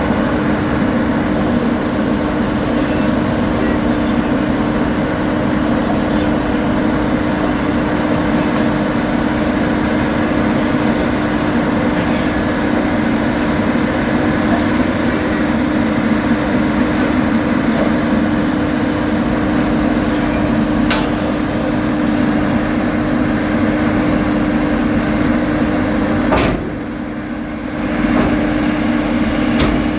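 Diesel engine of heavy road-paving machinery running steadily at a constant pitch. Near the end there is a sharp click and the sound drops for a second or two before coming back.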